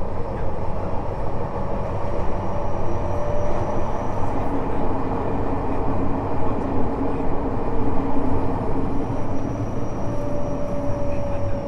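Tokyo Metro 05 series subway car running between stations, heard from inside the car: a steady wheel-and-rail rumble. Over it comes a faint whine from its Mitsubishi IGBT-VVVF traction drive, which fades out after about four seconds and returns near the end.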